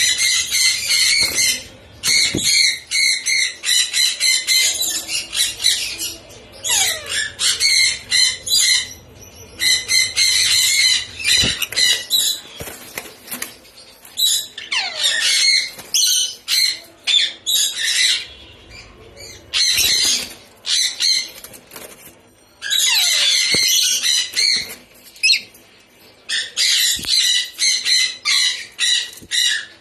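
Lorikeets giving shrill, rapid screeching calls in repeated bursts of a second or two, with short pauses between.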